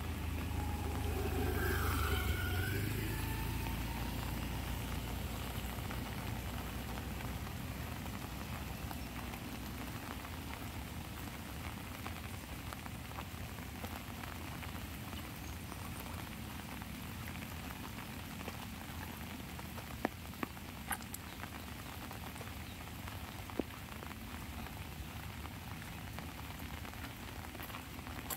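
Steady light rain pattering on an umbrella. A low rumble with a brief wavering whine swells and fades in the first few seconds, and a few sharp ticks come near the end.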